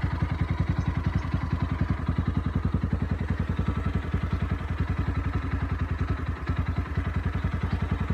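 Motorcycle engine running at a steady speed while riding, with an even, rapid low pulse.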